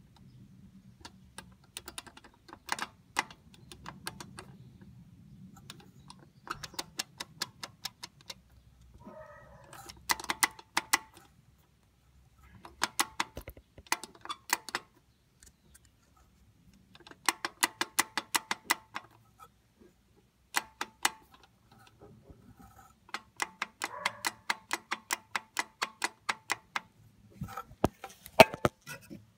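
Wastegate of a VW Golf Mk7 1.4 TSI 110 kW turbo engine rattling: bursts of fast metallic clicks, a second or two each, with short pauses between. This is the sign of the wastegate rattle fault, a loose, worn wastegate linkage.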